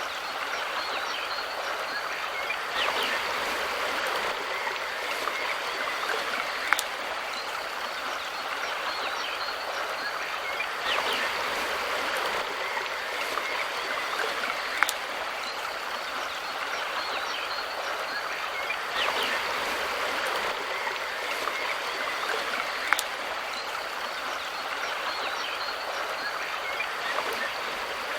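Mountain river rushing steadily over rocks, with a sharp click about every eight seconds.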